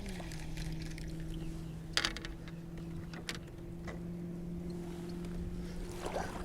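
A kayak's small electric motor humming steadily. Its pitch drops a little at the start and rises back near the end, as its speed is eased off and brought up again, with a few sharp clicks and knocks about two to four seconds in.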